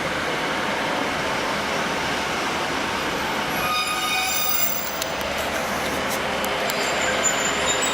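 A passenger train running into the station: a steady rush and rumble of wheels on rail, with a brief high-pitched squeal about four seconds in.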